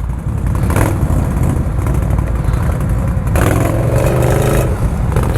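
Can-Am Renegade ATV engine running hard and revving, growing louder over the first second and then holding steady.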